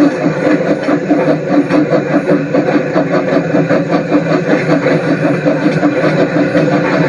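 Steam locomotive working a train, a fast, even beat over a steady rumble.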